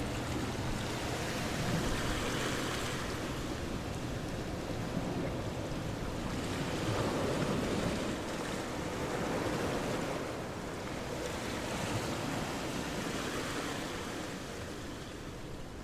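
Steady rushing noise of surf-like water sound that swells and eases every few seconds.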